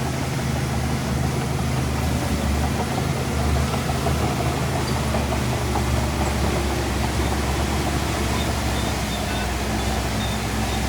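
Heavy earthmoving machine's diesel engine running steadily at a low, even pitch.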